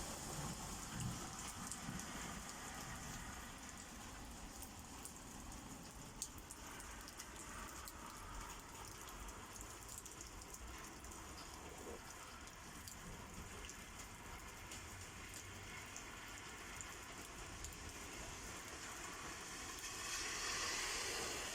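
Rain falling steadily, with many small drops ticking on surfaces. It grows louder near the end.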